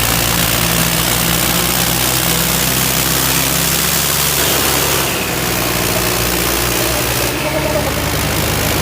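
Diesel tractor engines running steadily, under a loud hiss.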